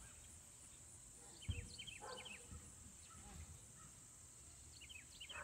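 Faint outdoor ambience: a bird's short rising chirps in two quick clusters, about a second and a half in and again near the end, over a steady high insect drone, with one soft low bump about a second and a half in.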